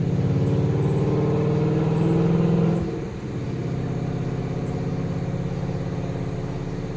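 A motor vehicle engine idling close by: a steady low hum that drops somewhat in level about three seconds in.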